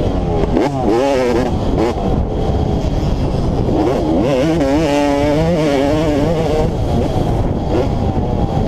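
Motocross dirt bike engine being ridden hard, its pitch climbing and dropping again and again as the throttle is opened and closed.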